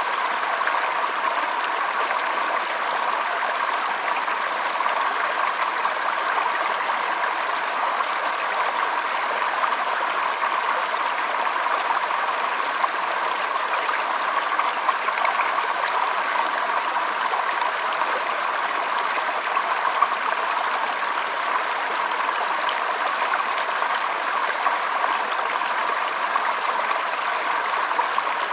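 Shallow stream trickling and flowing over its bed, steady throughout.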